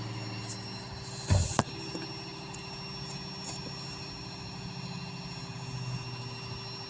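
A vehicle engine idling steadily, with a brief rushing noise about a second and a half in.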